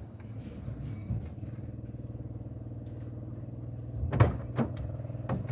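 Car engine running steadily as the car drives on, with a few sharp knocks about four seconds in and again near the end.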